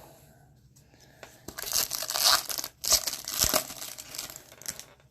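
Foil wrapper of a baseball card pack being torn open and crinkled, in two rustling stretches starting about a second and a half in.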